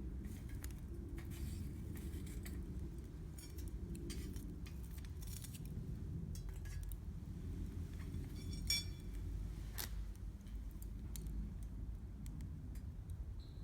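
Wood campfire burning with a steady low rumble and scattered crackling pops, and a sharp metallic clink about nine seconds in.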